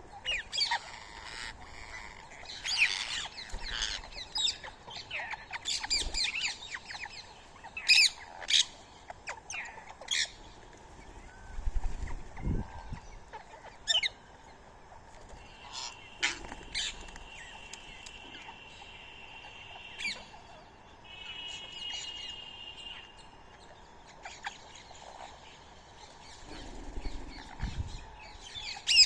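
Birds calling: many short, sharp squawks and chirps at irregular intervals. Midway there is a steady whistled note held for about four seconds, then a shorter wavering one, and there are two soft low thuds.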